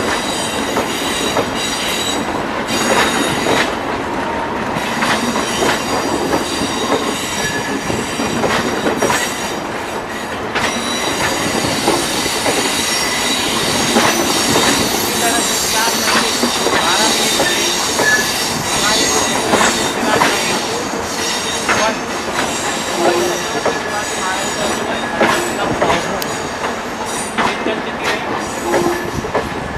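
Rajdhani Express passenger coaches rolling past at low speed: steady rumble of the wheels with frequent clacks over rail joints and points, and intermittent high wheel squeal.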